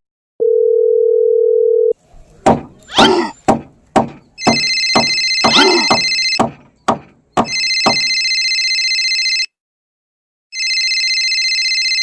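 Telephone sound effects: a steady dial tone for about a second and a half, then a run of quick clicks and swoops, then an electronic phone ringtone sounding in three bursts of about two seconds each.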